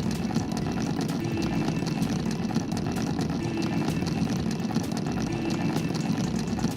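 Small battery-powered DC motor running steadily, driving a popsicle-stick toy train, with a continuous rattle of small clicks from the gearing and wheels.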